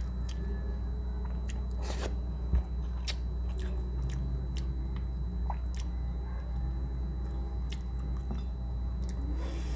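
Close-miked eating sounds: mouth clicks and chewing of vinegar-stewed milkfish (paksiw na bangus) and rice eaten by hand, with a short low thump about two and a half seconds in.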